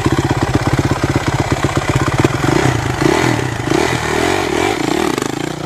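Motorcycle engine running loudly close to the microphone, its firing a rapid, even beat, with the revs wavering up and down from about halfway through.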